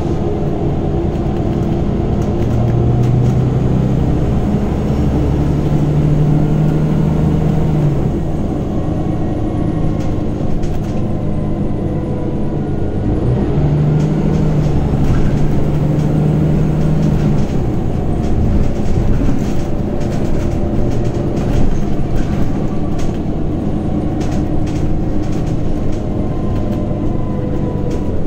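Scania Omnicity city bus heard from inside while driving: the diesel engine and drivetrain drone steadily. The engine note holds steady pitches for a few seconds at a time, stepping up and then dropping away twice. Light rattles and clicks from the cabin come mostly in the second half.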